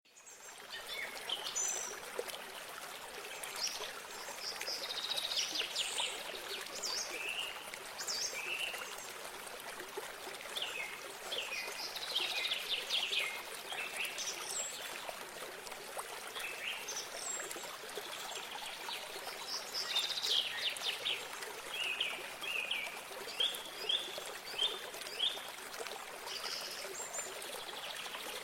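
Small birds singing and chirping over the steady trickle of running water. There are many short whistled notes and trills, with a run of sharper repeated notes near the end.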